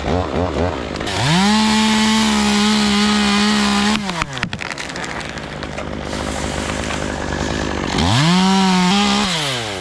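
Chainsaw revved to full speed twice: once for about three seconds starting a second in, then briefly near the end. Between the bursts it falls back to a lower, uneven run.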